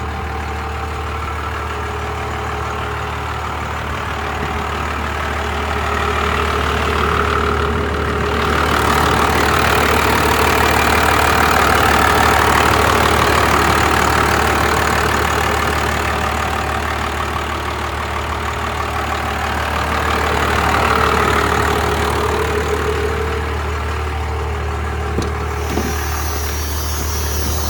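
1997 Dodge Ram's 5.9 12-valve Cummins inline-six turbodiesel running steadily. It swells louder from about a third of the way in until past two-thirds, then settles back.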